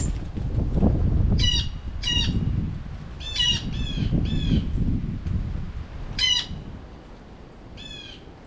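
Blue jays giving harsh, nasal 'jay' calls, about seven short squawks at irregular intervals, some in quick runs of two or three. A low rumbling noise runs underneath and fades after about six seconds.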